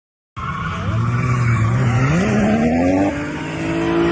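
Car engine accelerating hard, its note climbing steadily after starting abruptly, with a brief dip near three seconds in before holding high, over a steady tyre squeal.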